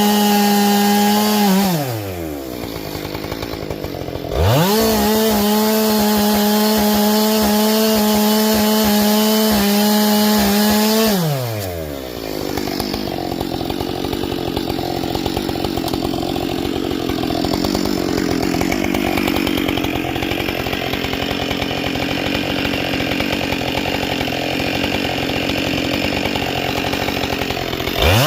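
Husqvarna 572XP two-stroke chainsaw with a carbide chain: it runs at high revs, drops briefly to idle about two seconds in, revs back up, then slows at about twelve seconds as it bites into wood for a long cut, revving freely again right at the end.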